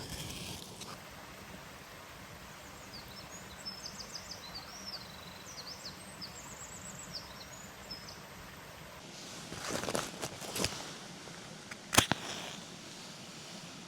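Outdoor ambience with birds chirping over a steady background hiss and a thin high steady tone. Rustling comes about ten seconds in, and a single sharp snap near the end is the loudest sound.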